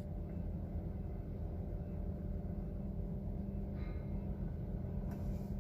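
Steady low hum with a faint rumble inside the truck's cab.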